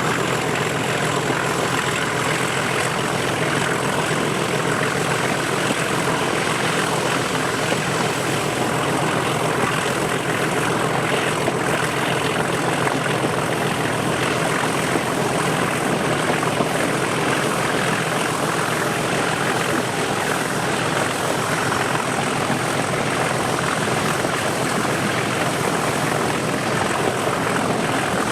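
Class 37 diesel locomotive's English Electric 12CSVT engine running steadily under power, heard from the train behind it, mixed with wheel and rail noise and a steady high-pitched whistle.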